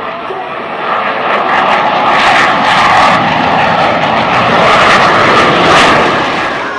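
Jet noise of Blue Angels F/A-18 Hornets flying past, swelling about a second in, staying loud with two peaks, then easing off near the end.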